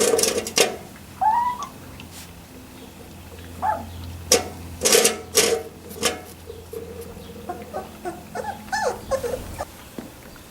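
Three-week-old Labrador Retriever puppies giving short, curving whimpers, a few at a time, with scuffling and rustling between them.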